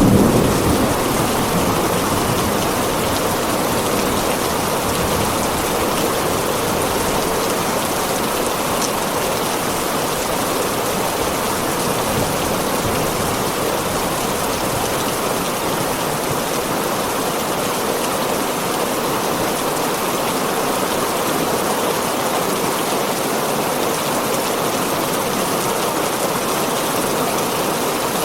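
Heavy rain falling on a tin roof, a steady dense hiss of drops. A low thunder rumble dies away in the first second.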